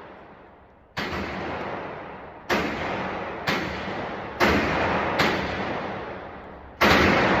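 Gunshots from a firearm being fired in a string: six shots at uneven spacing, roughly a second apart, with the last two closer together. Each shot is followed by a long echoing decay.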